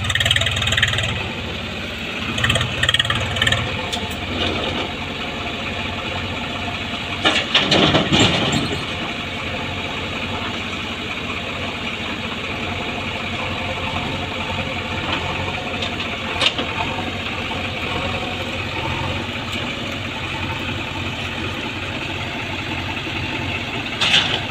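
Heavy diesel machinery engines running steadily, with a loud surge lasting about a second, roughly eight seconds in, and a sharp knock later on.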